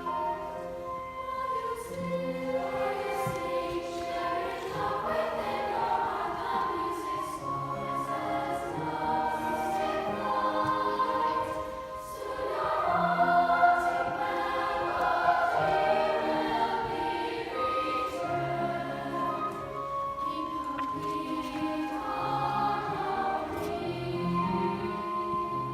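Youth choir singing held chords in several parts, with a low bass line beneath and a swell to louder singing about halfway through.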